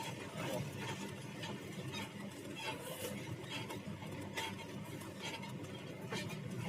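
Mercedes-Benz O500RS coach heard from inside the cabin: a steady low engine and road drone with frequent light rattles and creaks from the body and fittings.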